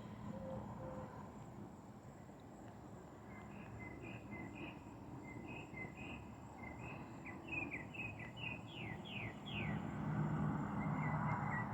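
A small songbird singing over faint outdoor ambience: a run of short high chirps that starts a few seconds in and ends in several quick falling notes, with a soft rustling hiss near the end.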